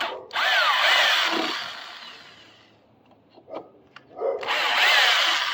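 Corded electric drill backing screws out of deck wood, run twice for about two seconds each time, its pitch bending and the sound trailing off at the end of each run.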